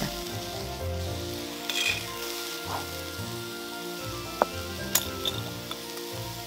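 Sweet peppers and mushrooms sizzling on a hot stone cooking slab, browning to a crust, with a couple of sharp crackles about two-thirds of the way in.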